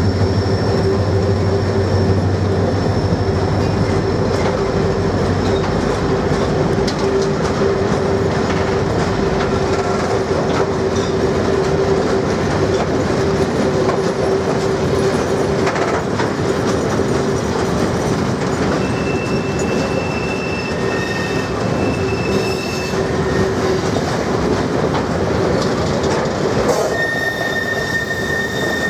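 Ealos open freight wagons loaded with eucalyptus logs rolling slowly along the rails in a steady rumble, with brief high-pitched wheel squeals in the second half.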